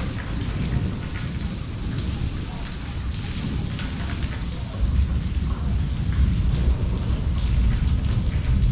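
Steady rain falling, with scattered drops tapping close by. A deep low rumble underneath grows louder about halfway through.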